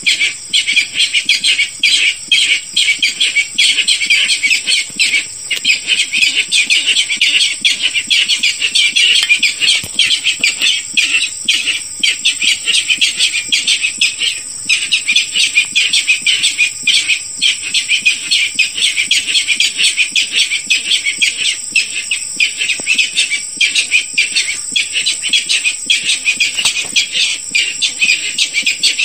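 Barred rail calls in a fast, unbroken run of sharp, harsh notes, over a steady high-pitched buzz.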